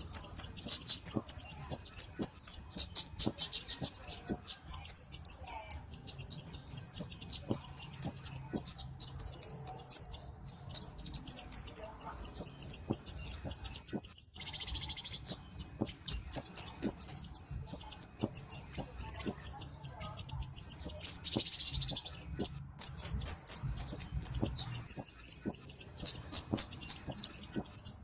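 Flowerpecker (cabe-cabean) calling: rapid runs of sharp, high, thin ticking notes in bursts of a few seconds, broken by short pauses and a couple of brief buzzier notes.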